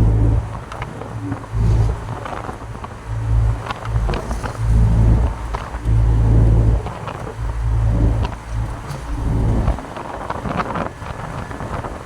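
Truck on the road: a low engine and road rumble that swells and fades every second or two, with light clicks and rattles over it.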